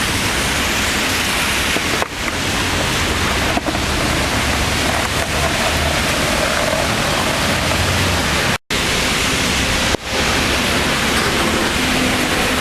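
Loud, steady hiss of heavy rain, broken a few times by short gaps, once to near silence about two-thirds through.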